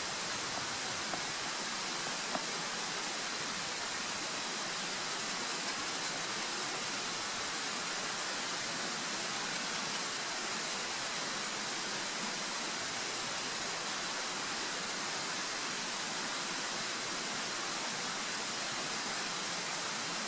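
Steady, even outdoor hiss with no distinct events, and a single small click about two seconds in.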